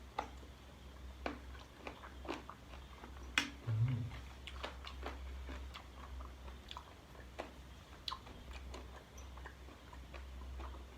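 A person chewing and biting into spicy chicken-feet salad, with many small irregular clicks and mouth smacks.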